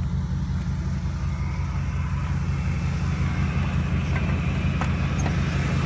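Straight-piped V8 of a 2006 Dodge Ram 1500 idling steadily, a low even rumble.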